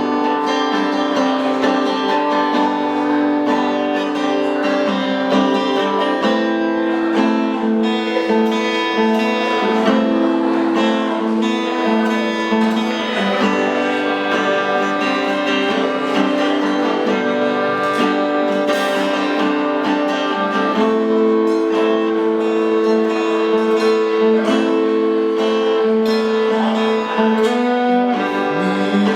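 Instrumental band intro played live: acoustic guitars strumming and picking chords, with bass, and long held notes above them.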